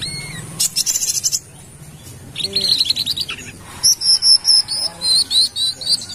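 Sunbird (kolibri kelapa) singing: quick bursts of high twittering trills, then in the second half a run of sharp, repeated high chirps, about three a second.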